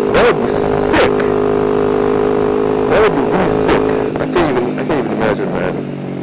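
Motorcycle engine running at a steady speed, a droning tone that fades about four seconds in.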